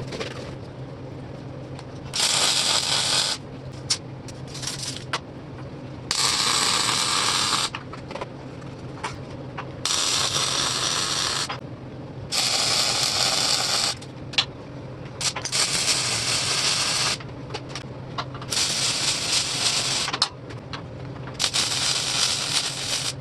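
Steady low machine hum with repeated bursts of harsh, crackling hiss, each one to two seconds long, coming every two to three seconds; shop tool work.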